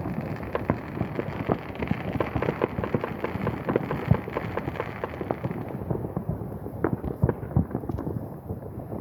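Many fireworks going off at once: a dense, continuous crackle of pops and booms, thinning somewhat in the last few seconds, heard through a phone's microphone.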